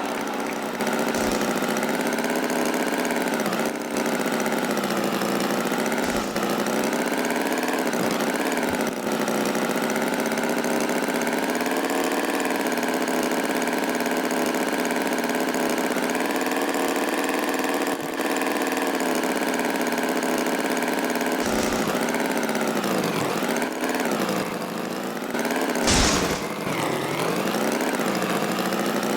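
Tractor engine running steadily at idle, its pitch dipping and rising a few times, with a brief sharp higher sound near the end.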